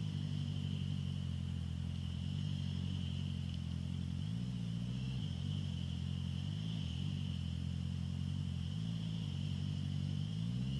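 Honda CBR650F inline-four engine running through an Akrapovic full exhaust at steady riding revs, dipping briefly in pitch three times as the throttle eases and rising near the end. A steady high whine runs under it.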